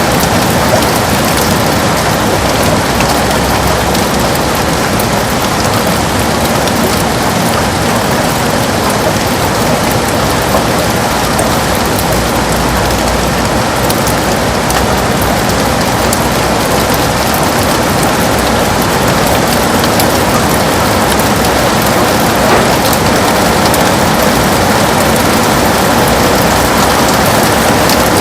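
Heavy rain pattering steadily on a window pane, a dense even hiss of many drops.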